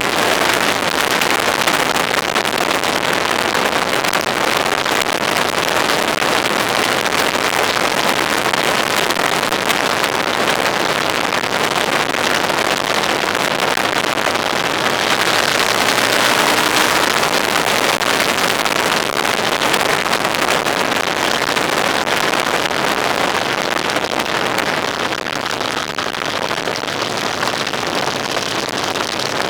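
Steady rushing wind and road noise from a moving vehicle, with little engine tone heard through it.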